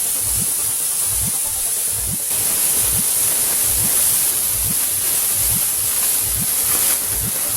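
Strong wind blowing across the microphone as a steady loud hiss, with regular low thumps about twice a second underneath.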